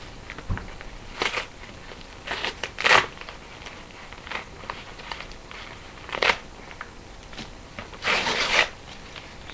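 A delivered parcel's packaging being handled and opened by hand, in scattered short rustling and scraping bursts: a sharp one about three seconds in, another about six seconds in, and a longer rustle about eight seconds in.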